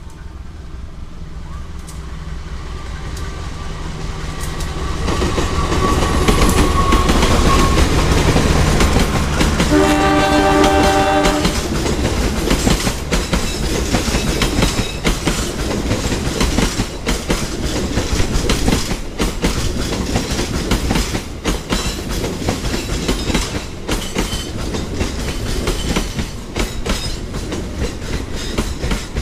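CC 201 diesel-electric locomotive (GE U18C) approaching and passing with a rumble that builds over the first several seconds. Its horn sounds once, for about a second and a half, around ten seconds in. Then comes the steady clickety-clack of the passenger coaches' wheels over the rail joints as the train runs by.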